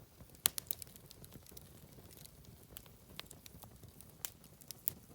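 Wood fire crackling, with irregular sharp pops and snaps over a soft rumble, the loudest pop about half a second in.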